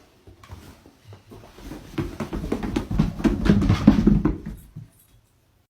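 A dog's paws thumping and clattering down a flight of stairs in a quick run of knocks, growing louder about two seconds in and stopping just before the end.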